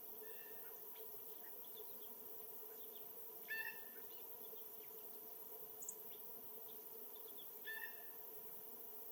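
Birds calling: two louder short calls, about three and a half seconds in and near the end, with faint scattered chirps and one brief high note around six seconds, over a steady faint hum.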